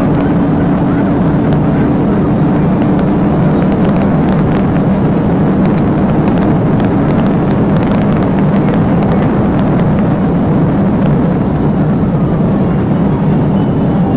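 Steady vehicle engine and road noise picked up by a police car's dashcam: a continuous low drone with a few scattered light clicks in the middle.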